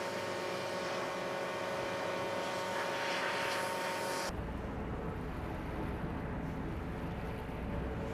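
Steady machinery hum with a held whine over a wash of noise. About four seconds in it cuts abruptly to a low, steady rumble.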